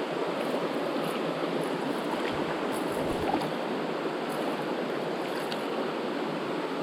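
Steady rushing of flowing creek water, an even wash of noise with no rise or fall.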